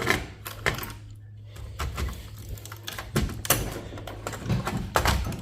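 Irregular clicks and light knocks of hand tools and small hard parts as components are worked off a server circuit board, with a steady low hum underneath.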